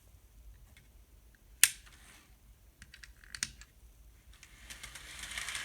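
A few sharp, scattered clicks, the loudest about one and a half seconds in and several more about three seconds in, then a hiss that builds up near the end.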